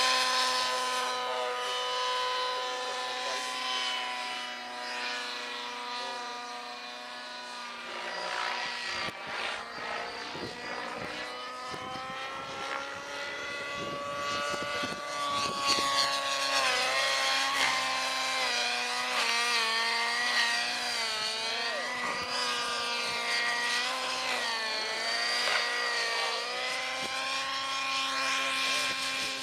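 Radio-controlled model helicopter flying, its high motor and rotor whine held steady at first, then swooping up and down in pitch again and again in the second half as it manoeuvres.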